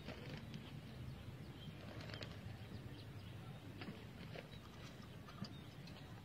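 Spotted dove's wings flapping in short, scattered flutters over a faint low hum.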